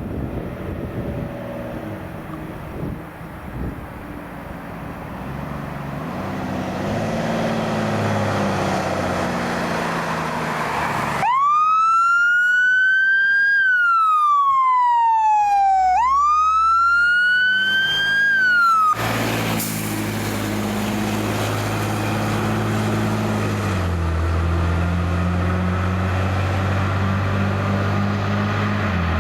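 Fire truck engine pulling away and building revs, then a siren wail: one rise, a long fall and a second rise over about eight seconds, cutting off suddenly. The truck's engine then runs on steadily, dropping in pitch near the end.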